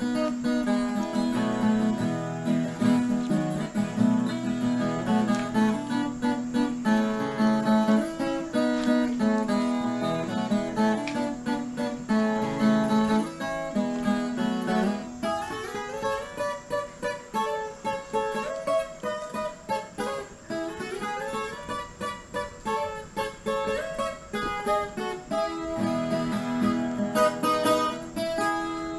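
Acoustic guitar music: plucked notes and strums, with sliding runs in the middle, fading out near the end.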